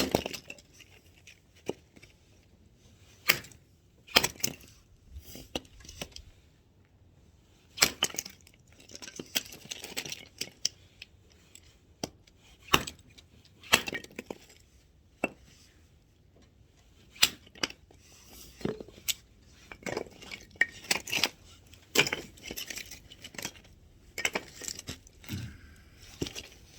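Axe chopping firewood: a series of sharp knocks from the blade striking and splitting wood at irregular intervals, with clattering in between.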